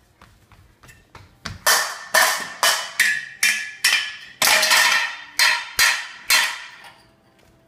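A run of about a dozen loud bangs, roughly two a second, each ringing briefly, as something is struck over and over; a few faint taps come before it.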